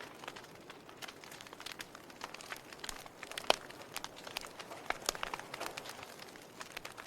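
Log fire crackling: irregular sharp pops and snaps over a soft hiss, the loudest pop about three and a half seconds in.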